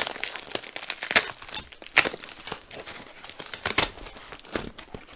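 Packing material being crinkled and torn by hand while a parcel is unwrapped: an irregular run of crackles, with a few louder snaps.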